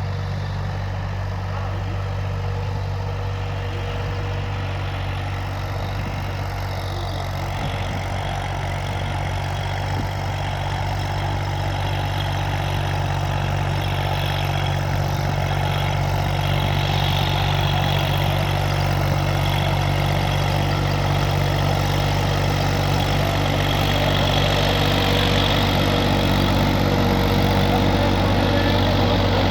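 New Holland 3230 NX tractor's three-cylinder diesel engine running steadily, growing gradually louder over the second half.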